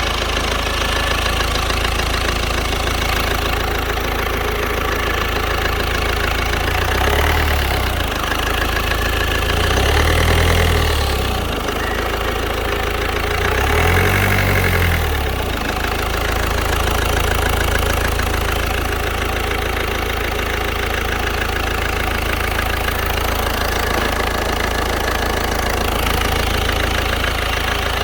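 Ford 1.6 TDCi four-cylinder diesel engine (NGDA, Mk3 Focus Econetic) idling warm, revved briefly three times at intervals of about three or four seconds, each rev rising and falling back to idle.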